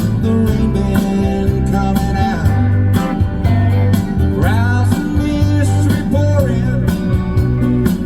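Country-rock band music led by guitar, with a steady drum beat and bass under it, with a few bent notes about halfway through.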